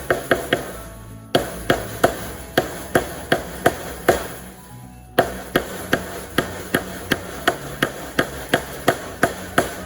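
Hammer striking tacks into a wooden frame to fasten hardware cloth: a steady run of sharp knocks, about three a second, pausing briefly twice. Background music plays underneath.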